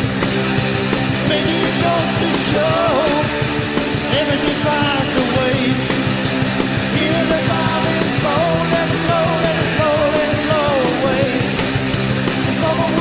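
Rock band playing a song with guitar, and a lead singer whose voice comes in a few seconds in.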